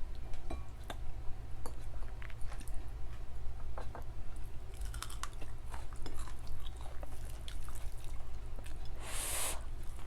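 Close-miked chewing and mouth smacking of a mukbang meal of daing na bangus (fried milkfish), with many small wet clicks. A brief, louder noisy crunch or rustle comes near the end.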